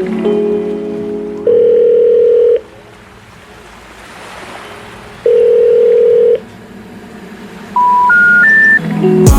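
Telephone call tones. A single-pitch ringback tone sounds twice, about a second each and roughly four seconds apart. Near the end come three short rising tones, like the signal that a number can't be reached, with music fading out before and starting again at the very end.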